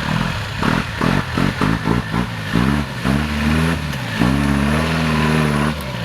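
Off-road car engine revving hard: uneven knocking bursts at first, then the revs climb and are held high for over a second before cutting off suddenly near the end.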